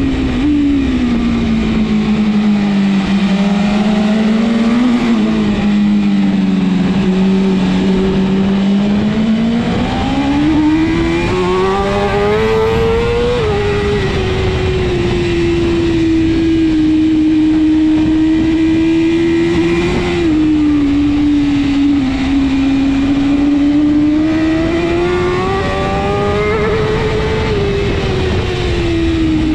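BMW S1000RR superbike's inline-four engine at race pace, its pitch falling as it slows for corners and rising again under acceleration. The note drops and holds low for several seconds, climbs to its highest point about 13 seconds in, runs steadier, then dips and climbs once more near the end.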